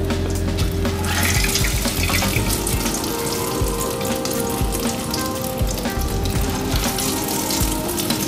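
Egg-battered cauliflower deep-frying in hot oil, a steady sizzle full of fine crackles that gets louder about a second in as more battered pieces go into the oil. Soft background music runs underneath.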